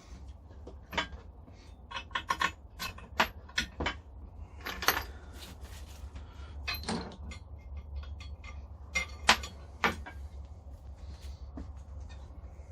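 Metal grinder parts and tools being handled and set down during assembly: a string of irregular metallic clinks and knocks, some briefly ringing, over a steady low hum.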